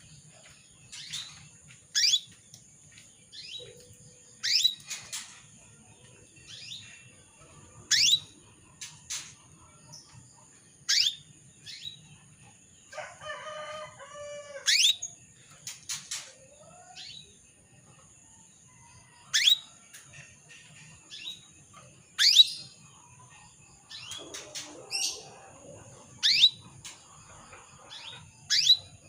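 Female canary giving short, sharp chirp calls that sweep steeply down in pitch, repeated at irregular gaps of one to three seconds: the calls of a hen in breeding condition that are used to set male canaries singing.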